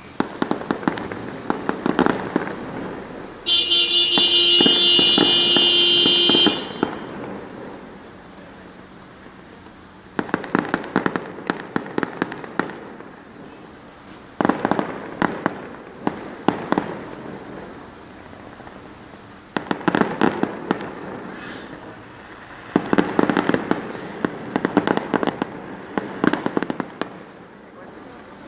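Fireworks going off in bursts of rapid crackling pops, several clusters a few seconds apart. A loud held tone sounds for about three seconds near the start.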